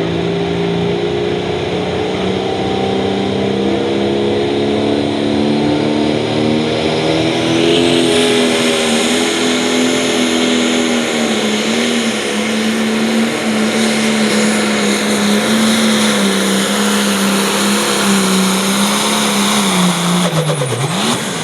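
International pulling tractor's turbocharged diesel engine at full throttle, hauling the weight-transfer sled, with a high turbo whine. The engine pitch holds high, climbs a little about eight seconds in, then falls away near the end as the run finishes and the throttle comes off.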